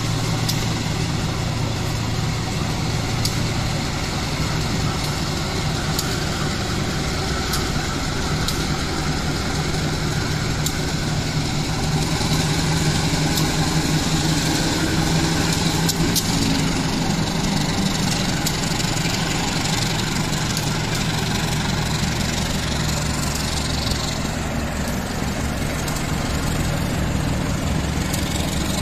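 Inside a moving KRL electric commuter train: a steady hum from the train and the noise of its wheels on the rails, with occasional clicks. The hum shifts in pitch about halfway through.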